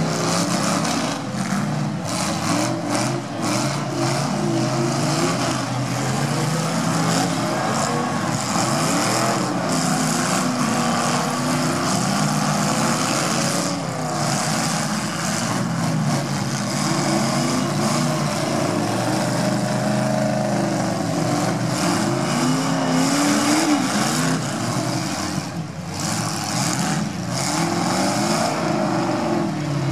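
Several demolition derby car engines revving hard and rising and falling in pitch at once as the cars push and ram each other in deep mud, with an occasional knock from a collision.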